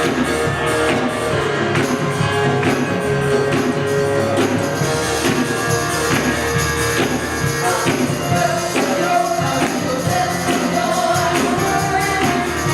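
Live worship band music with singing, a steady beat and tambourine.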